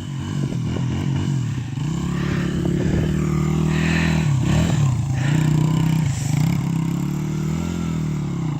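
Honda XR100 dirt bike's single-cylinder four-stroke engine revving up and down repeatedly, its pitch rising and falling every second or two.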